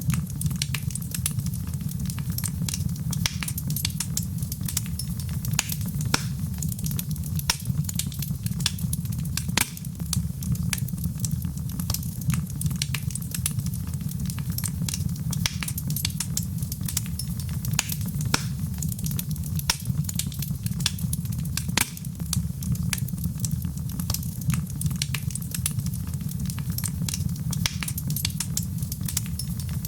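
Wood fire in a fireplace crackling steadily, with many sharp pops and snaps over a low, even rumble of the flames.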